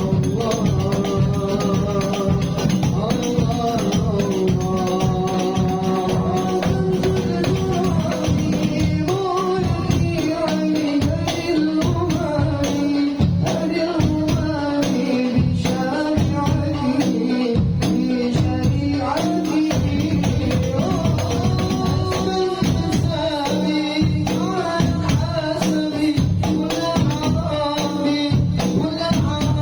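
Devotional Arabic song (sholawat) sung over hand-played frame drums and tambourine jingles. About eight seconds in the drumming becomes a dense, steady beat.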